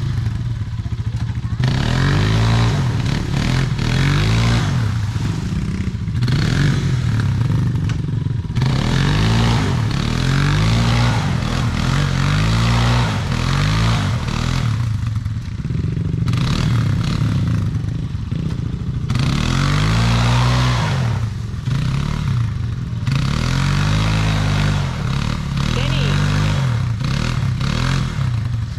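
Dirt bike engine revving up and dropping back over and over, a rise and fall every couple of seconds, with some clatter.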